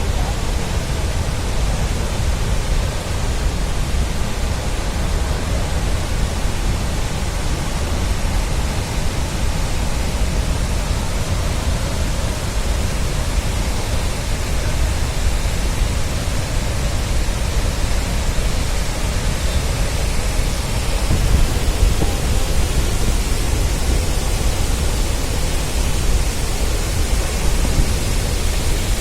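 Athirappilly Waterfall's falling water: a steady, loud rush of noise with a deep rumble underneath.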